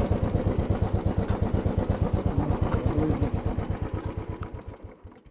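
Motorcycle engine idling with an even, rapid beat, fading out near the end.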